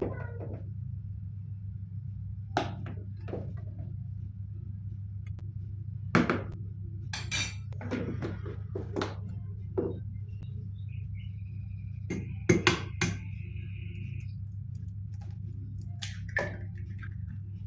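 Dishes and utensils clinking and knocking: about a dozen separate strikes, over a steady low hum. A thin high tone is held for about three seconds midway.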